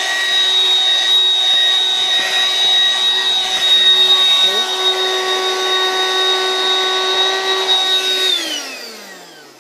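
Dirt Devil handheld vacuum cleaner running steadily with a high-pitched whine as it picks up dirt from carpet. Near the end it is switched off, and the whine falls in pitch and fades as the motor spins down.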